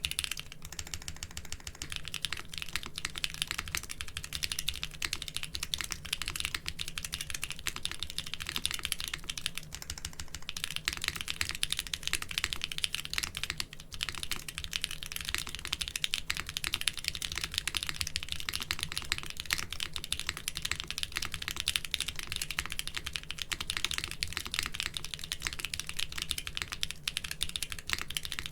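Mechanical keyboard fitted with doubleshot keycaps, typed on quickly and continuously: a dense, rapid patter of keystrokes with a brief pause about fourteen seconds in.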